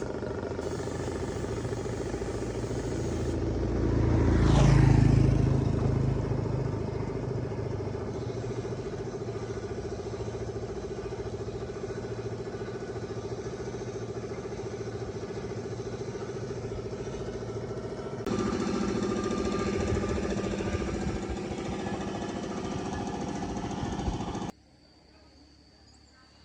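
An engine running steadily, swelling louder about five seconds in, then cutting off suddenly near the end, leaving a faint background.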